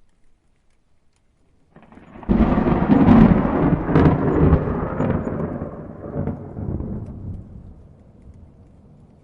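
A thunderclap: a rumble that breaks in sharply about two seconds in, crackles for a few seconds, then rolls away and fades slowly.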